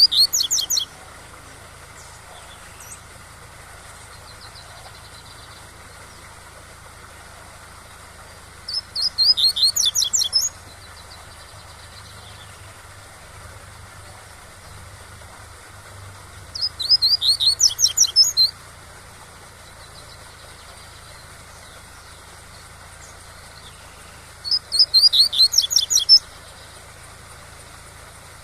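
Double-collared seedeater (coleiro) singing the 'tui-tui' song in four short phrases of fast, repeated high notes, about eight seconds apart, the first already under way at the start. Steady waterfall noise runs underneath.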